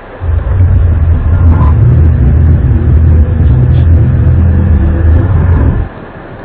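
Loud, low, steady droning rumble, of the kind posted as a mysterious 'trumpet' sound from the sky. It cuts off suddenly about six seconds in.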